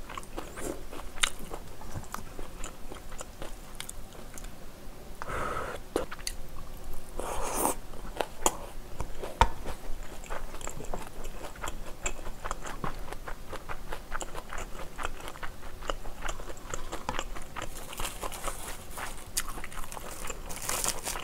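Close-miked chewing of a mouthful of kimchi fried rice, with many small clicks of a metal spoon against a steel pan. Near the end, a brief crackle of a sheet of dried seaweed being handled.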